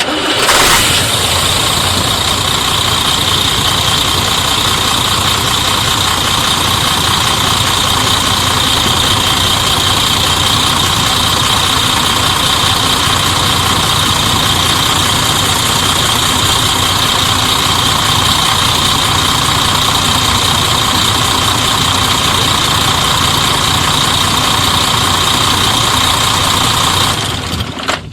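MAN TGA 18.360 truck's six-cylinder diesel engine running steadily at idle, with a steady high-pitched whine over the engine note.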